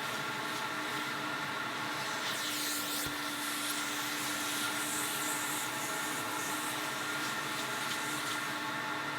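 A steady motor hum of a vacuum-type cleaning machine, with hissing sprays on top: a short burst about two and a half seconds in and more airy hiss a little later.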